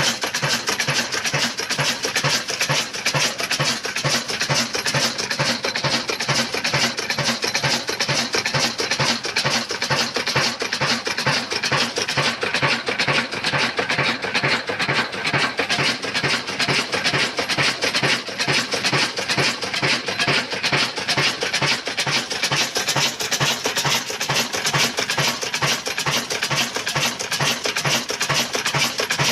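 Old black desi stationary diesel engine running steadily, its firing beating in an even, unbroken rhythm.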